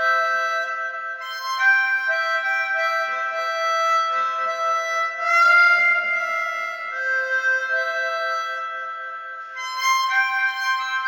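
Harmonica playing a slow tune in held chords, several notes sounding at once, with a louder swell near the middle.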